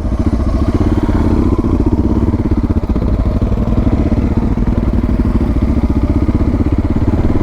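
Suzuki DR650 single-cylinder four-stroke motorcycle engine idling steadily, a fast even thumping, just after being started.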